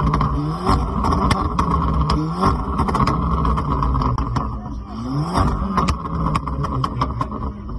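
Car engine revved through its exhaust in about three blips, the pitch rising and falling each time, with scattered sharp clicks between them.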